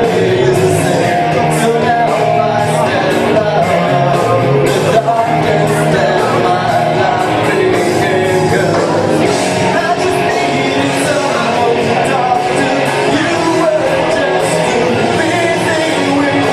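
A singer performing a song with instrumental backing, loud and steady throughout.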